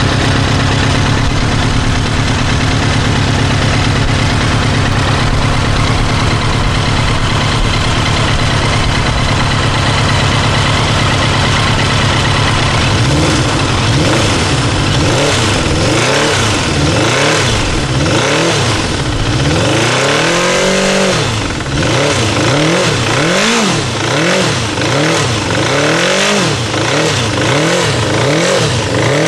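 Kawasaki GPZ900R inline-four motorcycle engine running with a hammering noise whose cause is unknown. It idles steadily at first, then about halfway through the throttle is blipped again and again, the revs rising and falling roughly once a second, with one longer rev in the middle of that run.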